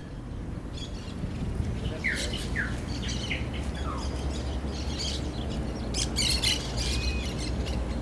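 Birds chirping, with short downward-sliding chirps in the first half and a cluster of harsher, squawking calls about six seconds in, over a steady low rumble.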